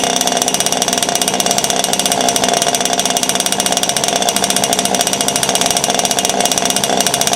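Zenoah two-stroke petrol engine of an RC gas boat running at a steady speed through a custom water-cooled quad exhaust, a rapid even firing pulse with no change in pitch.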